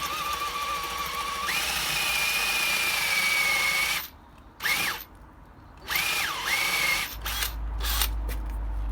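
Makita drill with a 22 mm spade bit boring holes into a section of Christmas tree trunk. The motor whine steps up in pitch about one and a half seconds in, runs steadily, then cuts off; after that come several short trigger bursts, some dropping in pitch briefly.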